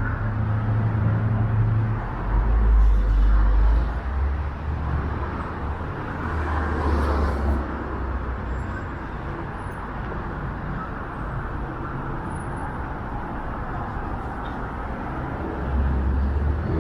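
City street traffic: cars and other vehicles running by as a steady rumble of engine and tyre noise, with a louder vehicle passing about two to four seconds in.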